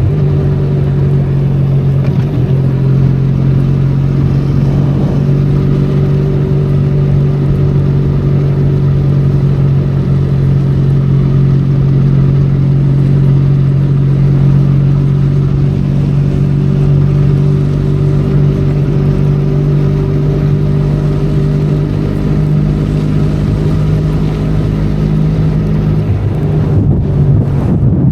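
Benelli Leoncino 500 Trail's parallel-twin engine running at a steady cruising speed, with the constant noise of rain and riding. The engine note dips and changes briefly near the end, as the throttle eases or the rider shifts gear.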